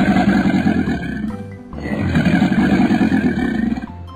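A roar sound effect for an animated crocodile: two long, rough roars, the second starting about a second and a half in, over background music.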